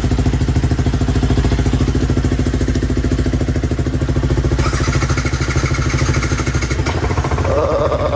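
Yamaha R15 v3's single-cylinder engine idling steadily. It runs through a stock exhaust whose dB killer has been partly cut away, which makes the idle note louder.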